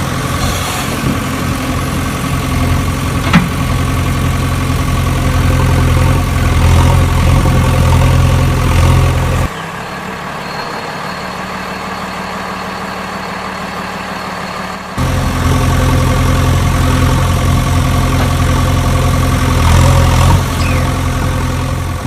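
A vehicle engine running steadily at idle, with one sharp click a few seconds in. About nine seconds in, the engine sound drops suddenly to a much quieter level, and it comes back just as suddenly about five seconds later.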